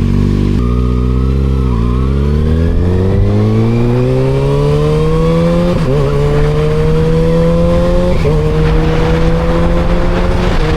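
Motorcycle engine pulling away and accelerating through the gears: its pitch climbs, drops at an upshift about six seconds in, again about eight seconds in and once more near the end, with rising wind noise as speed builds.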